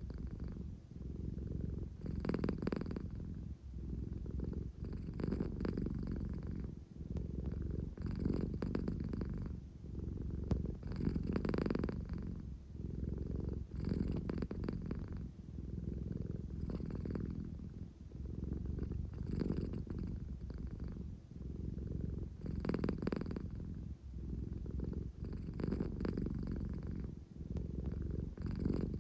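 American Shorthair cat purring steadily. The purr swells and fades with each breath, about every three seconds.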